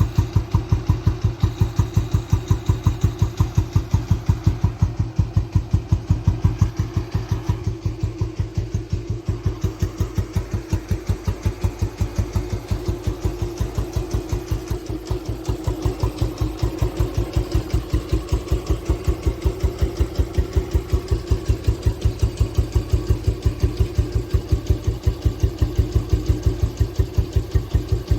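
1964 Royal Enfield Bullet 350's single-cylinder four-stroke engine idling steadily, with even exhaust beats at about five a second.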